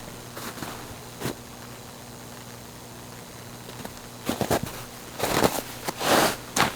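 Overhead electrical power lines humming, a steady low hum, with several loud crunching, rustling noises like footsteps between about four and seven seconds in.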